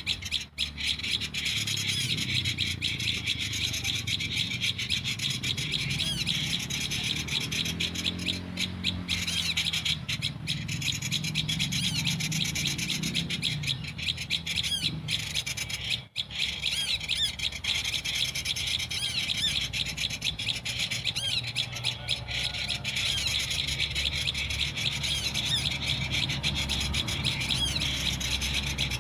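Prinias (prenjak) calling in a rapid, continuous chatter of high, wavering notes, over a steady low rumble.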